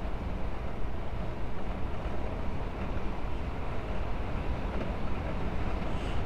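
Steady drone of a truck's engine and road noise heard from inside the cab while driving at highway speed.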